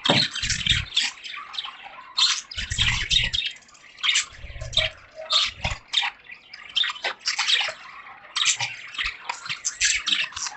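Budgies chattering in a cage: a dense, continuous run of quick, scratchy chirps and warbles, with a few low bumps now and then.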